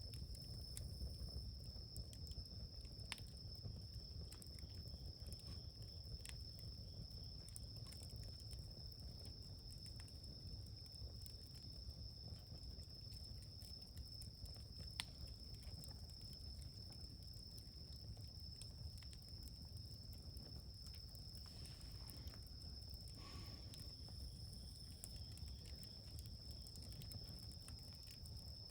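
Faint outdoor ambience: a steady high-pitched insect trill runs throughout over a low rumble, with scattered soft clicks.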